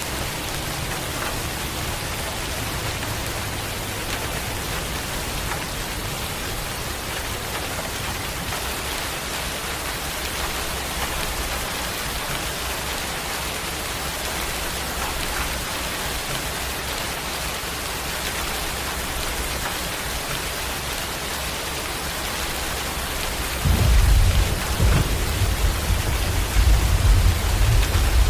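Steady heavy rain falling. Near the end a loud, deep rumble of thunder sets in and keeps going.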